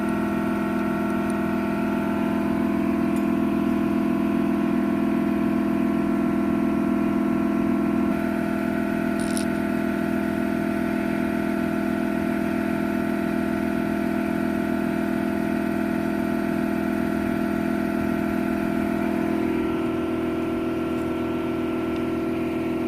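A vehicle engine idling steadily with a fast, even low pulse, its note shifting slightly about eight seconds in.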